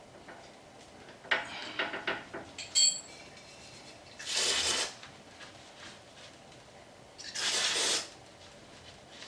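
Small metal parts and tools clinking and knocking, ending in a brief metallic ring, then two short hissing sprays about three seconds apart.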